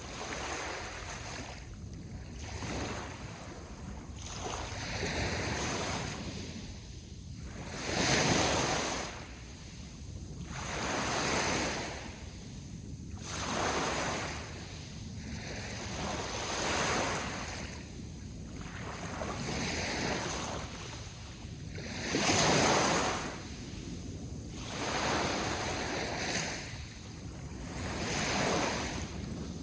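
Sea waves washing ashore, one after another, each swelling and falling back every two to three seconds; two bigger waves break about a quarter of the way in and about three quarters through.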